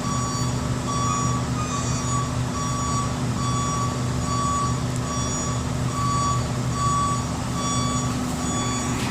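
A heavy machine's back-up/travel alarm beeping steadily, a little more than one beep a second, over the steady hum of a diesel engine running.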